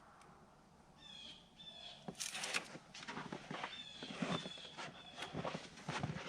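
A bird chirping in short, repeated notes, over rustling, crinkling and tapping as a sticker is peeled off its backing and pressed onto a shed door.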